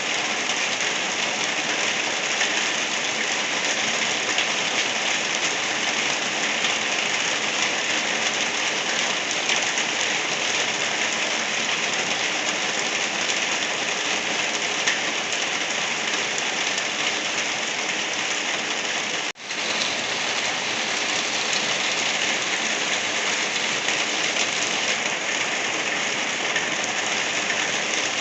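Steady rain falling on a surface, an even dense hiss of drops, with a momentary break in the sound about two-thirds of the way through.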